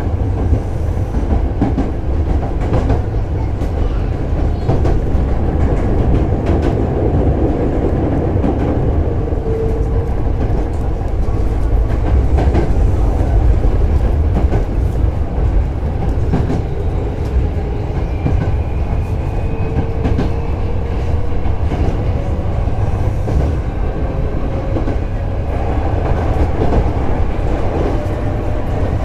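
Hankyu 7000 series electric train running at speed, heard from inside the car: a steady wheel-on-rail rumble with rail-joint clickety-clack. A faint whine rises slowly in pitch over the second half.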